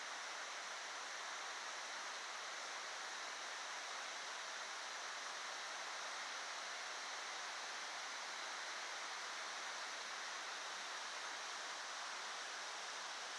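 Fast-moving stream water running, a steady rushing hiss with no breaks.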